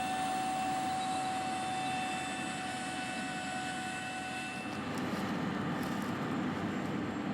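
Big John Deere farm machinery running in the field: a steady engine drone with a thin steady whine over it. About five seconds in the whine stops and a heavier, lower engine sound takes over.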